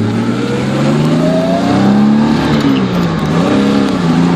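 1969 Jaguar E-Type's 4.2-litre straight-six engine accelerating hard, its pitch climbing for about two seconds, dropping back briefly in the middle as it changes gear, then rising again.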